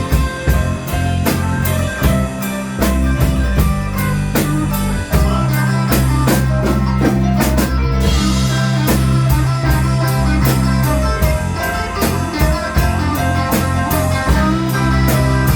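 A live blues-rock band playing an instrumental passage: a drum kit keeps a steady beat under guitar and sustained low bass notes.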